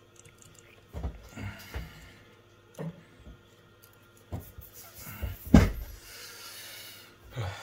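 Handling knocks and clicks from tools and small parts being set down and picked up on a repair bench, loudest about five and a half seconds in, followed by a short soft hiss.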